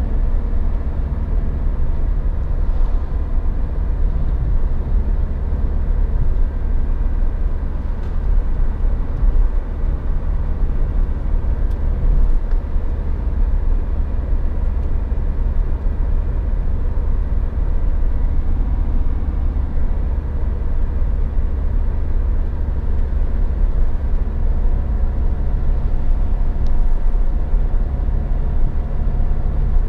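Suzuki Jimny 1.5 VVT's four-cylinder petrol engine and road noise heard from inside the cabin while driving, a steady low drone with the engine note holding a nearly constant pitch.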